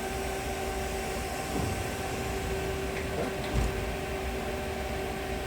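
Steady hum of a machine shop's running equipment, with a constant tone over it, and a single low knock about three and a half seconds in.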